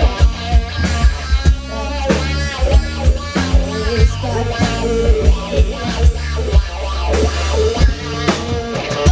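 Rock band playing: drum kit with a steady beat, a heavy bass line and guitar, with a singing voice over them.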